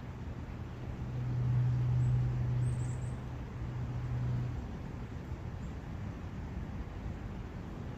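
Steady rushing background of a brook, with the low hum of a distant vehicle swelling about a second in and fading out around halfway through.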